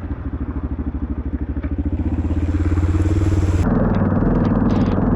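Dual-sport motorcycle engine running at low revs, chugging with an even pulse as the bike picks its way along a rough trail. About three and a half seconds in, the sound changes abruptly to a smoother, slightly higher engine note with some clicking and clattering.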